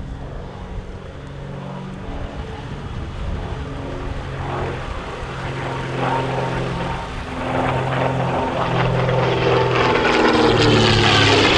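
The twin piston engines of a de Havilland DH.88 Comet racer in flight, a steady propeller drone that grows louder as the aircraft approaches and is loudest near the end.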